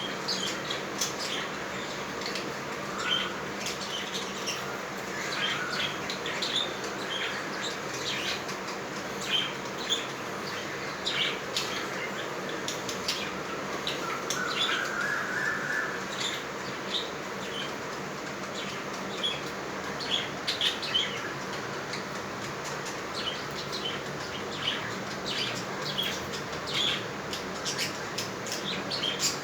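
Lovebirds chirping: short, sharp chirps and clicks at irregular intervals over a steady hiss, with one brief rising call about halfway through.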